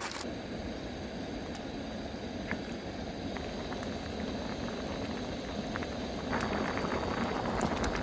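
A pot of soup bubbling at a rolling boil, steady with fine popping, getting louder about six seconds in.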